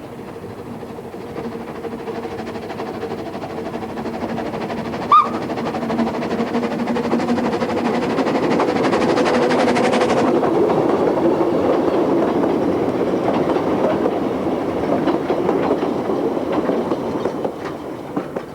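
Narrow-gauge steam train of the Talyllyn Railway, hauled by the locomotive Dolgoch, running along the line with a rumble and clatter of wheels on rails. The sound grows louder toward the middle as the train draws near, then fades. A brief high note sounds about five seconds in.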